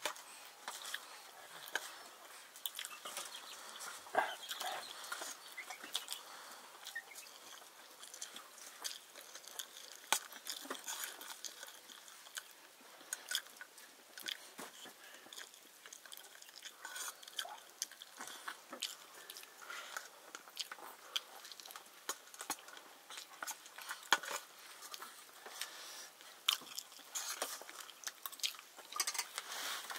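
Someone chewing crunchy food, with irregular crisp crunches and clicks throughout.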